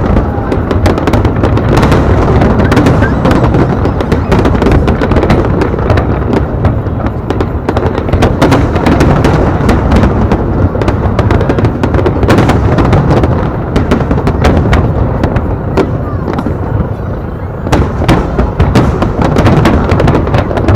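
Aerial fireworks display: shells bursting in a dense, continuous barrage of booms and crackles, easing briefly near the end before picking up again.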